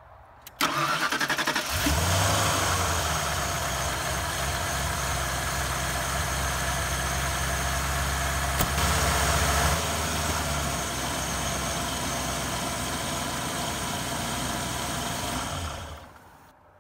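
1990 Lincoln Town Car's 5.0-liter V8 cranked by the starter for about a second, then catching and running steadily at idle before being shut off near the end. This is a test run of the newly replaced fan clutch.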